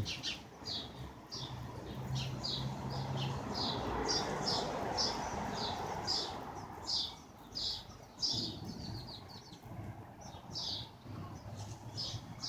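Sparrows chirping over and over, short falling chirps about two a second, with a soft rushing noise underneath from about two to seven seconds in.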